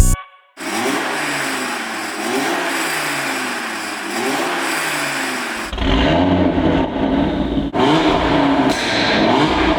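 2016 Audi RS3's turbocharged five-cylinder engine, breathing through a freshly fitted BullX downpipe and mid-pipe, revved over and over, its pitch rising and falling about once a second. The exhaust note gets louder and deeper about six seconds in.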